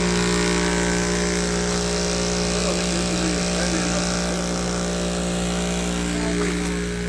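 Small air compressor running with a steady hum, building its tank pressure back up after being run down to empty.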